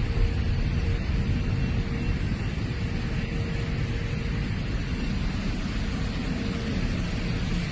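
Jet airliner engines, a steady loud rumble with no sharp events.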